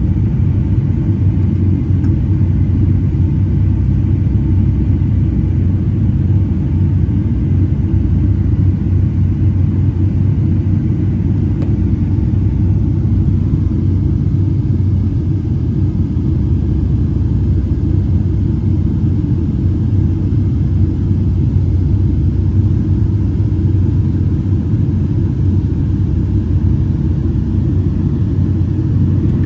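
Steady low rumble inside the cabin of a Boeing 757-200 in flight: engine and airflow noise, even and unchanging.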